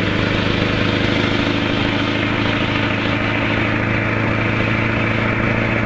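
Scania V8 engine idling steadily at an even pitch.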